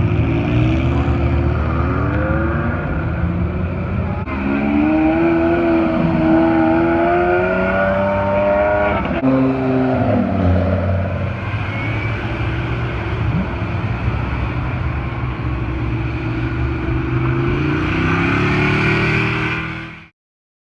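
Performance car engine accelerating, its pitch climbing in long pulls with a drop about nine seconds in, then climbing again near the end before the sound cuts off suddenly.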